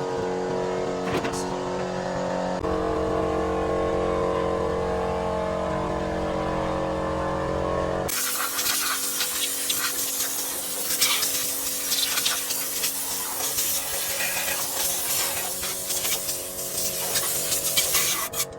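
A diesel engine running steadily, then cut off abruptly about eight seconds in by a loud hissing noise with scattered knocks and clatter.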